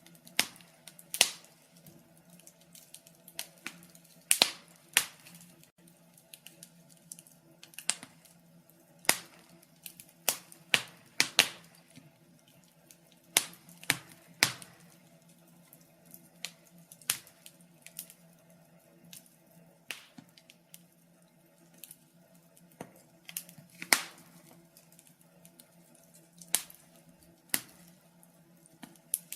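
Fire crackling: irregular sharp pops and snaps, some much louder than others, over a faint steady low hum.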